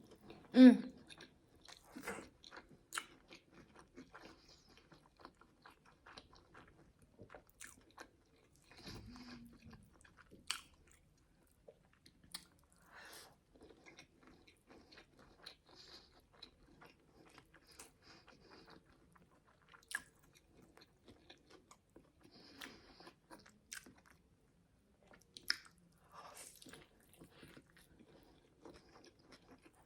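Close-miked chewing and biting into a crispy fried chicken burger: small crunches, crackles and mouth sounds, with a few sharper crunches near the start and about 20 and 25 seconds in.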